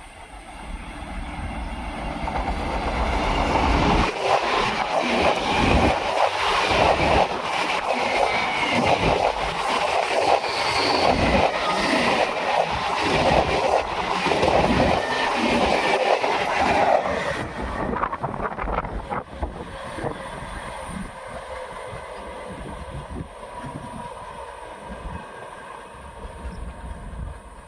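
Passenger train passing close by, its wheels clattering rhythmically over the rail joints. It builds over the first few seconds, stays loud for about thirteen seconds, then fades to a lower rumble as it moves away.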